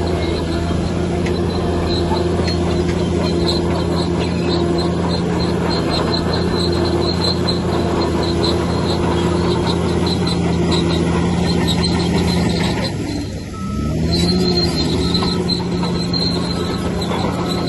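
Bulldozer's diesel engine running steadily under load, with a high pulsing squeal from the machine. About 13 seconds in, the engine note drops briefly, then revs back up.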